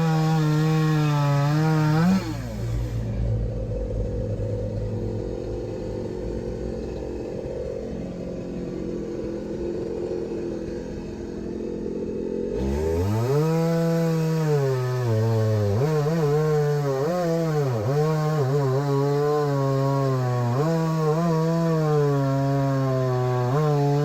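Small petrol engine running fast. About two seconds in its pitch drops sharply and it runs low and rough with a grinding noise. About twelve seconds in it climbs back up and keeps wavering in pitch.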